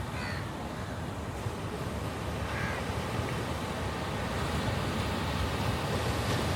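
Steady rush of sea surf on a beach, with a bird calling briefly twice, near the start and about two and a half seconds in.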